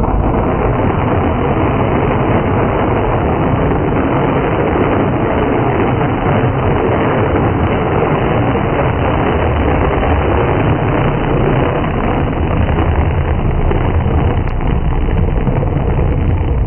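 A fast motorboat running at speed: a loud, steady rushing noise of engine, water and wind with no breaks.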